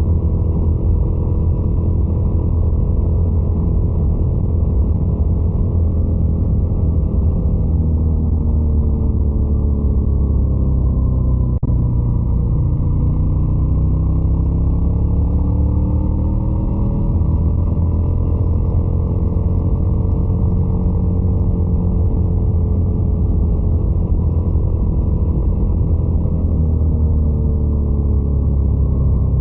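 Ducati Scrambler 800's air-cooled L-twin engine running steadily loud. Its engine speed sinks over a few seconds, then climbs back and holds, and eases off again near the end.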